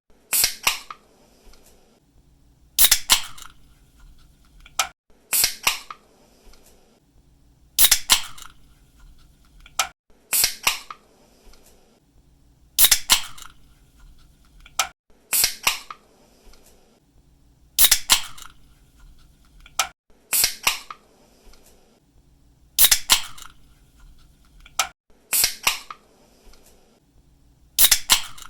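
Pull-tab of an aluminium drink can being opened, again and again: each time a sharp crack or two as the tab breaks the seal, followed by a short hiss. This repeats about every two and a half seconds, about a dozen times.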